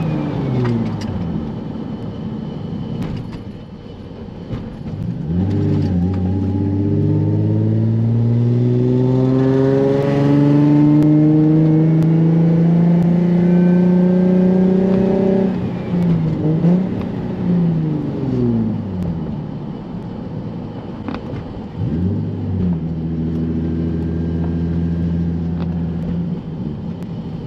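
Single-turbo Nissan 350Z's V6 engine heard from inside the cabin while driving. It winds down over the first few seconds, climbs slowly in one long pull of about ten seconds, drops and rises a few times, then holds a steady pitch near the end.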